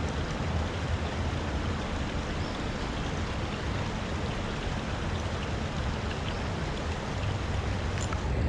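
Small creek's water rushing steadily, an even hiss with a low rumble underneath.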